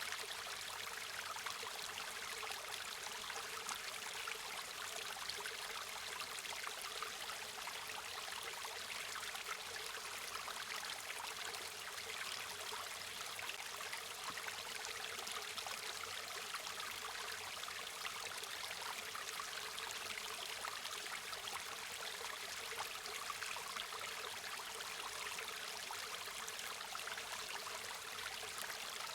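Flowing river water: a steady rush and babble of a stream running over rocks, with fine splashing and trickling, even in level throughout.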